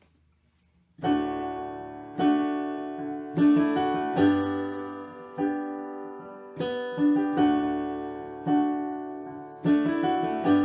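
Piano playing a slow chordal introduction to a hymn. After about a second of quiet, chords are struck roughly once a second, each one fading away before the next.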